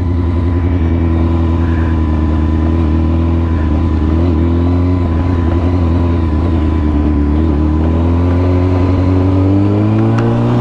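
Motorcycle engine running at a steady speed, its pitch rising near the end as it accelerates.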